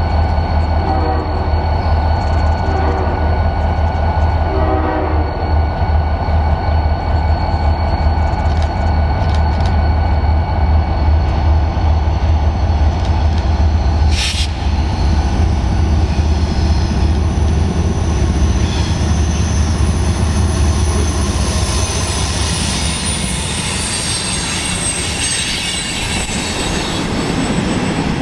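Diesel freight locomotive rumbling as it approaches, sounding its horn in three short blasts about two seconds apart near the start. Later the wheels squeal in high tones and the freight cars clatter past.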